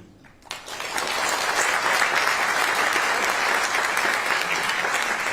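An audience applauding in a hall: dense, steady clapping that breaks out about half a second in.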